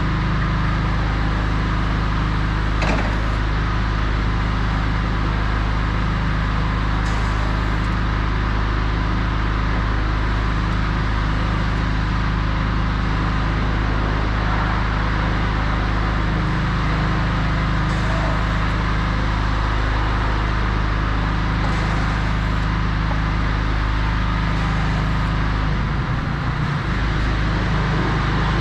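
Crown RR5210 electric reach truck's electric drive and hydraulic pump motors humming steadily, with a single click about three seconds in.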